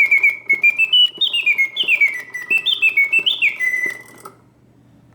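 Mechanical singing bird of a vintage Karl Griesbaum bird cage automaton whistling its song: quick warbling notes that step up and glide down in pitch, with faint regular clicks from the clockwork. The song stops abruptly about four seconds in as the mechanism goes into its pause.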